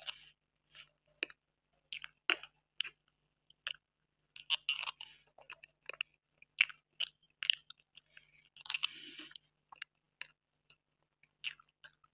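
A person chewing a mouthful of cream cake close to the microphone: wet mouth clicks and smacks at irregular intervals, with two longer, noisier stretches about four and nine seconds in.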